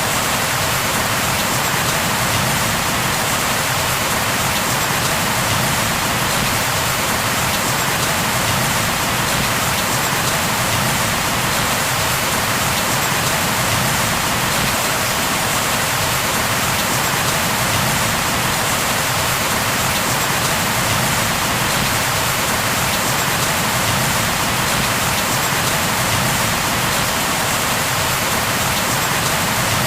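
Steady rain, falling evenly without letup.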